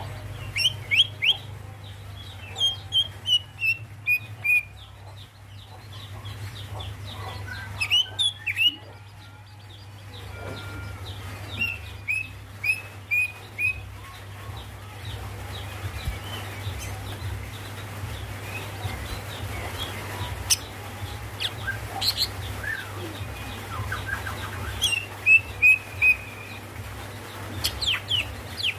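Female green leafbird (cucak ijo) calling for a male: runs of short, sharp notes, each dropping in pitch, about three a second, given three times. A steady low hum runs underneath.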